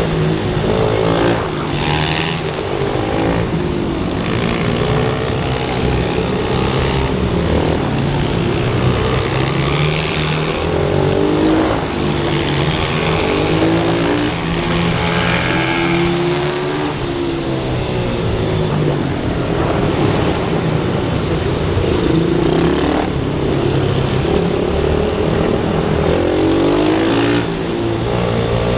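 Small-displacement pit bike engines revving up and dropping back over and over as they ride the circuit, each climb in pitch breaking off and starting again.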